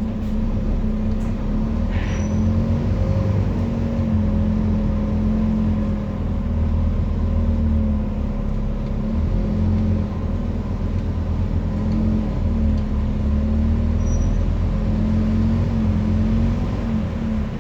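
Scania N230UD double-decker bus's five-cylinder diesel engine worked hard under acceleration, its note repeatedly climbing and then dropping back as the gearbox changes up. A brief click about two seconds in.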